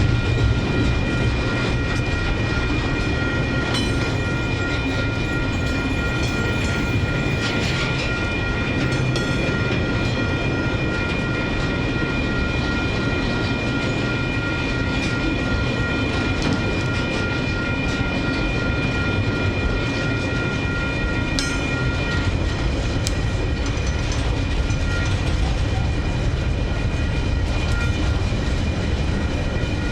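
Long freight train rolling past at a steady speed, its wagons giving a continuous rumble. A high steady whine sounds over the rumble until about three quarters of the way through, then fades.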